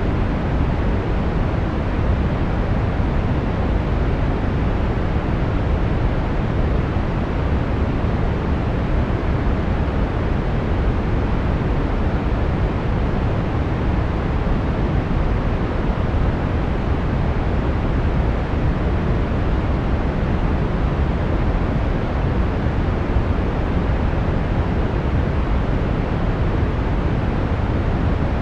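Steady brown noise: an even, unbroken rumbling hiss, strongest in the low end and falling away toward the highs.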